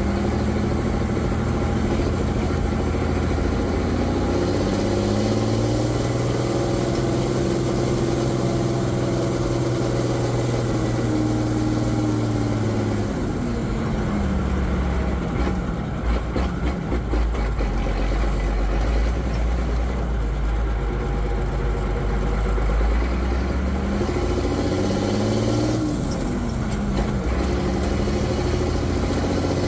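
M35A2 deuce-and-a-half's turbocharged multifuel inline-six and drivetrain heard from inside the cab while driving. The engine note climbs about four seconds in, falls away between about eleven and fourteen seconds, runs low and even for several seconds, then climbs again with a shift after about twenty-four seconds.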